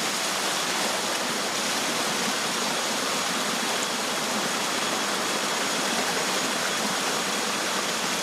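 Rushing water of a stream or small waterfall, a steady even rush with no breaks.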